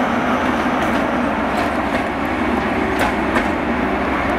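A Great Western Railway Class 43 HST power car passes close by, its diesel engine running steadily over the rumble of the train. The wheels click sharply over rail joints a few times.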